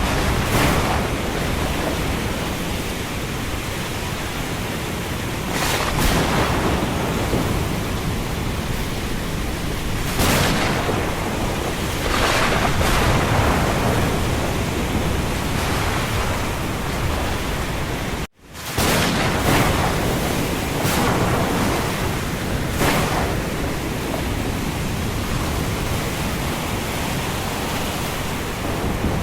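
Storm wind blowing hard in gusts, a steady rush of noise that swells every few seconds. The sound cuts out for an instant about two-thirds of the way through.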